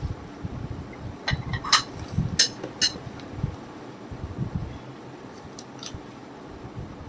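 Dishes and cutlery clinking in a few sharp knocks, over soft handling bumps, as food is served out onto plates. The clinks come mostly between one and three seconds in, with two fainter ones near six seconds.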